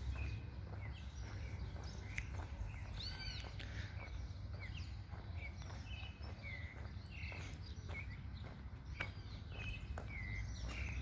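Several birds chirping and calling, short chirps and arching whistled notes repeating throughout, over a steady low rumble on the microphone.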